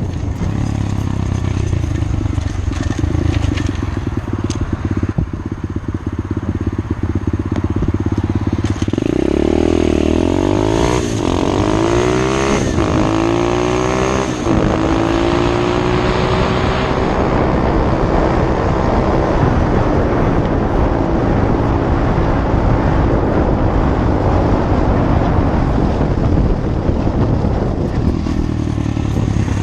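SSR 125 pit bike's small single-cylinder four-stroke engine running at low revs, then about nine seconds in accelerating hard. The pitch climbs and drops back several times as it shifts up through the gears, then holds a steady higher note at cruising speed.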